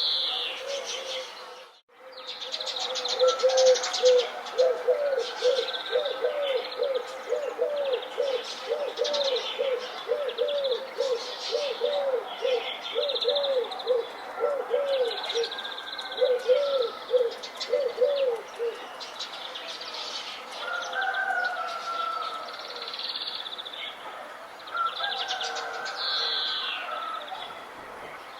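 Wild birds singing and chirping, with high twittering calls throughout. Over the first two-thirds, a low call repeats about twice a second underneath them, then stops. Near the start the sound drops out briefly.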